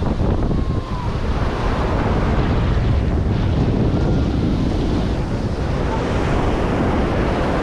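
Ocean surf washing onto a beach, with strong wind buffeting the microphone as a steady low rumble.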